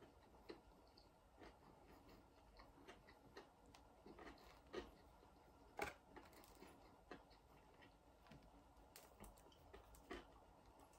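Faint chewing of a crispy chicken burger: irregular soft mouth clicks and smacks, with a louder crunch about six seconds in.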